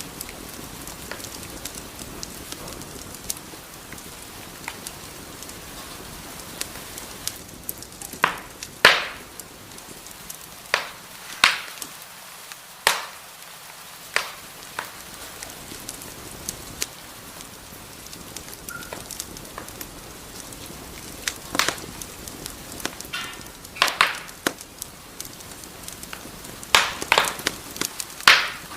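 Wood fire crackling in a fireplace: a steady low hiss broken by scattered sharp pops and snaps, with a few louder snaps in clusters near the middle and near the end.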